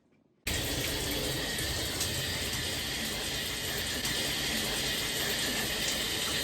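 Steady rush of water from a running shower, cutting in abruptly about half a second in.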